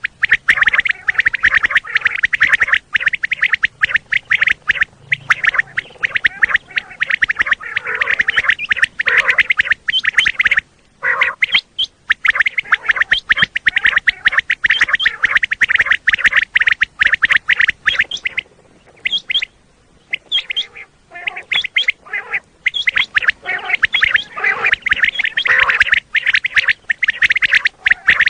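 Common quail calling, a dense run of rapid, loud calls with short breaks about eleven seconds in and again around twenty seconds in.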